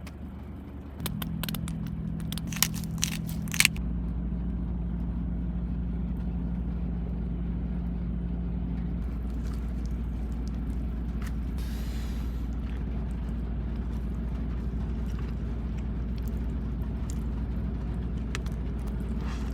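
Truck engine idling, a steady low hum that grows heavier about four seconds in, with a few sharp clicks and knocks in the first few seconds.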